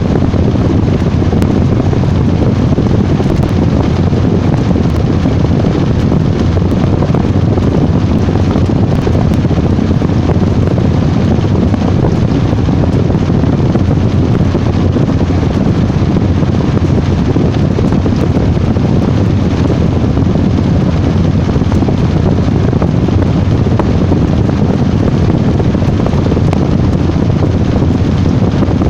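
Washing machine running with a loud, steady rumbling whoosh.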